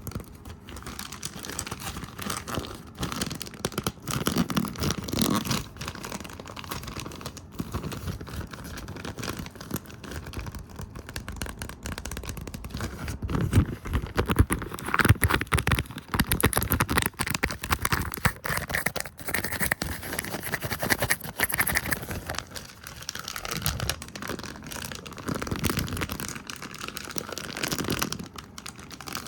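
Fast, close-miked ASMR brushing, tapping and hand movements: dense scratchy rustling broken by rapid sharp taps and clicks, a little louder around the middle.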